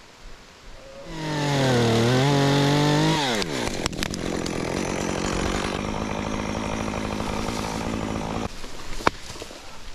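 Chainsaw revved at high speed for about two seconds, its pitch wavering, then dropping back to a steady idle that cuts off about a second and a half before the end.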